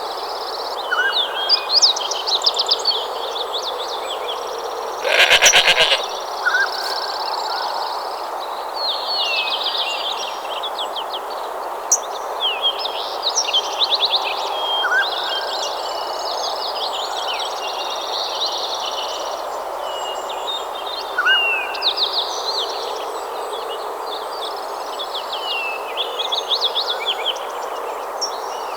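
Natural ambience: many birds calling with short, quick chirps throughout, over a steady background hiss. About five seconds in, one loud pulsed animal call lasts about a second.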